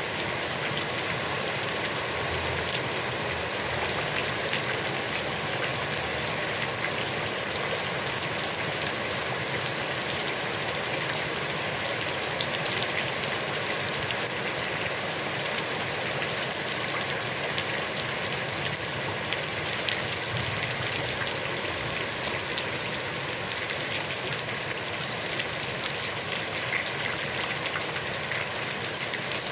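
Heavy rain falling steadily onto a pond's water surface, a dense even hiss with countless fine drop patters.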